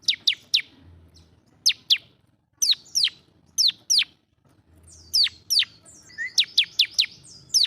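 Bar-winged prinia (ciblek) singing: sharp, quickly falling whistled notes in pairs and threes, repeated about once a second. Near the end it gives a short lower note and then a faster run of five falling notes.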